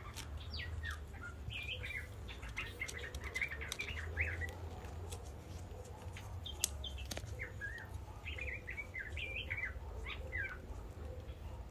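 Small birds chirping in two bursts of quick twittering notes over a steady low rumble, with a few sharp clicks in between.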